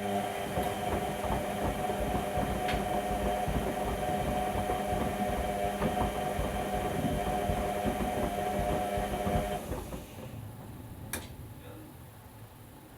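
Whirlpool Indiana 1400 front-loading washing machine running a wash cycle: a steady motor hum with irregular knocking and clattering from the load tumbling in the drum. It cuts off suddenly about ten seconds in, followed by a single click.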